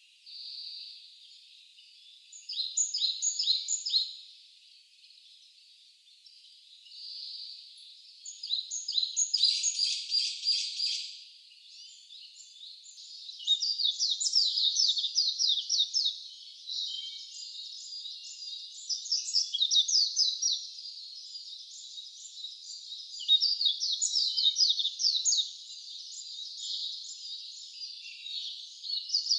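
Wild songbirds singing: phrases of rapid, high-pitched chirps and trills that come every few seconds, growing more continuous in the second half.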